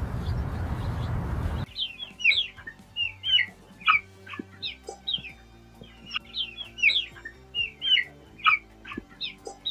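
Small birds chirping in quick, short sweeping notes, several a second. Before them, a steady rushing noise cuts off abruptly a little under two seconds in.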